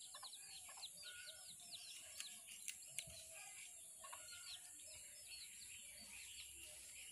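Faint, quick high chirps of small birds, several a second, over a steady high hiss of background noise.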